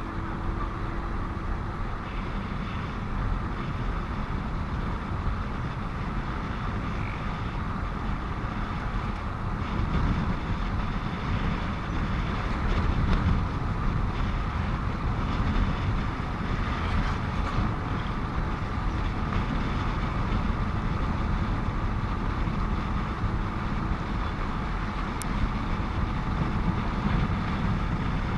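Steady engine, wind and road noise of a motorcycle being ridden along a highway, picked up by a microphone on the rider, swelling slightly now and then.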